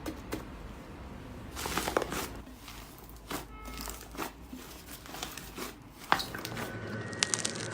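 Slime being handled, with crinkling, crackling noises and scattered small pops and clicks; a denser crackly stretch comes about two seconds in and a sharp pop about six seconds in.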